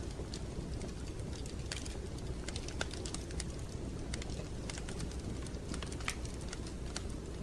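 Wood fire crackling in a fireplace: irregular sharp crackles and pops over a steady low rumble.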